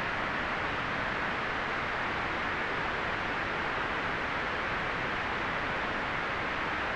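Steady, unchanging white noise: an even hiss with no rhythm or events, strongest in the middle-to-upper range and soft in the deep bass and highest treble.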